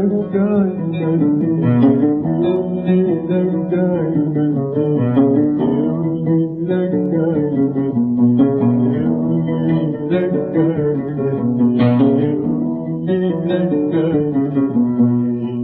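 Oud playing a flowing instrumental melody line, plucked notes moving in quick steps, in an interlude between sung verses of an Arabic song.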